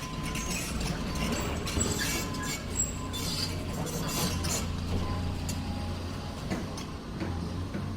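City street ambience: a steady low hum of traffic with scattered light clinks and clicks.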